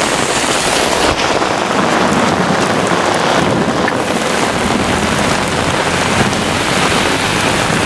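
Heavy rain pouring down steadily in a thunderstorm downpour, a constant dense hiss of rain hitting the ground.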